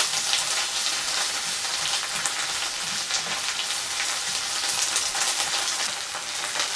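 Grated pickled cucumbers, onion and smoked brisket sizzling steadily in rendered fat in a frying pan, with light scrapes and taps of a slotted plastic spatula as the mixture is stirred.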